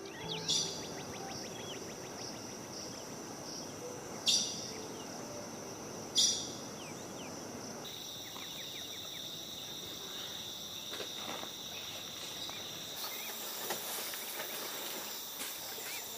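Insects droning steadily on a high note, with a second, lower steady note joining about halfway through. Three short, loud, high buzzes come in the first six seconds, with faint chirps over the top.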